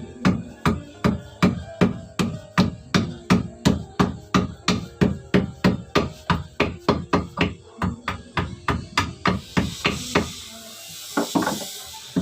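Hammer blows struck at a steady pace of about three a second, stopping about nine seconds in; a hiss follows, then two more blows near the end.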